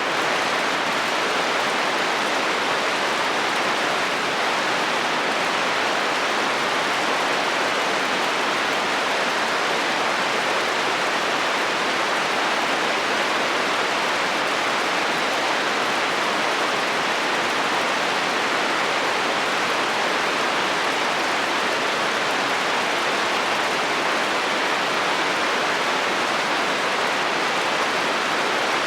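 Steady rain falling on a metal roof, an even, unbroken hiss.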